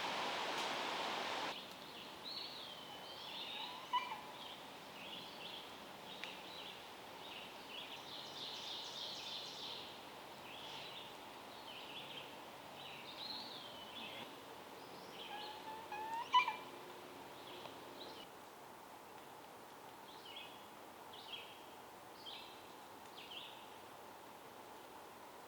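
A steady hiss cuts off after about a second and a half. Then forest birds call: a run of short, high-pitched, partly raspy calls about once a second, with a louder, sharper call about four seconds in and again about sixteen seconds in.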